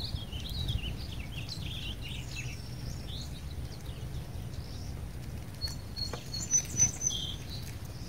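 Small wild birds chirping and twittering in quick gliding notes, then a few short, thin, high whistled notes about six seconds in, over a low steady outdoor rumble.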